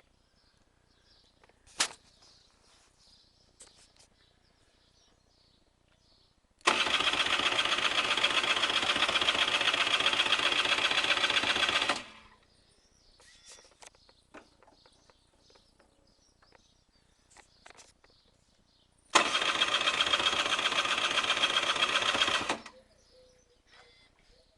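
Honda NSR 125R's electric starter cranking the two-stroke engine twice, about five seconds and then about three and a half seconds, without it catching. The engine fails to fire, which the owner puts down to a broken spark plug. Faint clicks come between the attempts.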